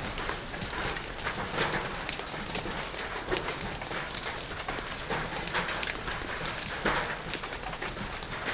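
Hailstones falling hard, a dense irregular patter of sharp knocks as they strike hard surfaces over a steady rain-like hiss.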